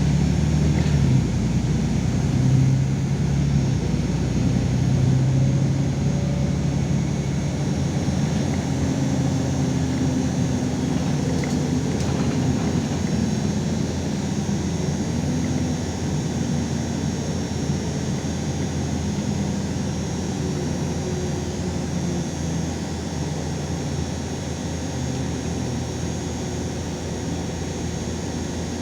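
LiAZ 5292.22 city bus heard from inside the cabin while driving: a steady engine and drivetrain drone whose pitch shifts a few times. It grows gradually quieter over the second half.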